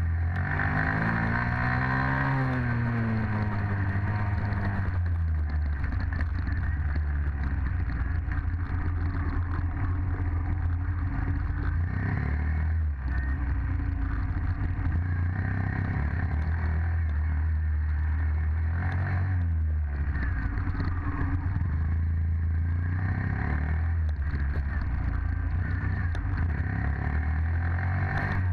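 Dirt bike engine running throughout, its pitch rising and falling several times as it revs up and eases off.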